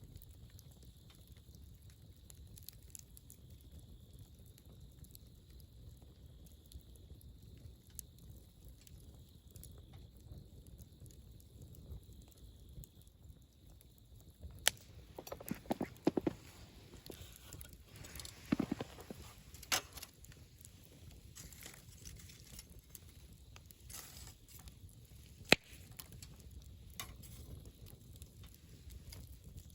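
Wood campfire burning with a low steady rumble, then sharp crackles and pops from about halfway, bunched together for a few seconds and ending with a single loud snap near the end.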